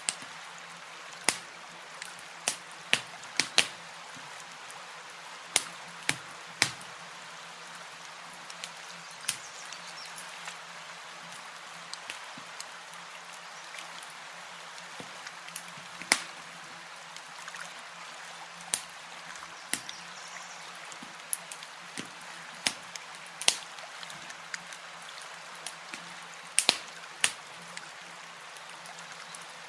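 Campfire crackling: irregular sharp pops and snaps, some far louder than the rest, every second or so over a steady soft hiss.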